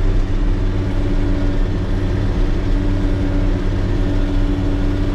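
Motor grader's diesel engine running at a steady speed: a constant low rumble with a steady hum of unchanging pitch.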